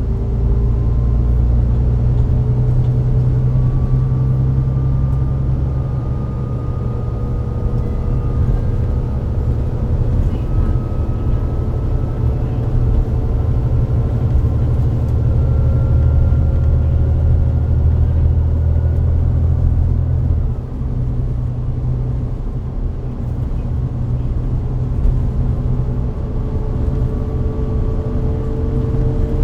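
Volvo D9B-310 diesel engine and Voith DIWA864.5 automatic gearbox of a Volvo B9TL double-decker bus, running under way. A whine climbs slowly in pitch, breaks off and starts again lower several times, over a steady low engine rumble that dips briefly about two-thirds of the way through.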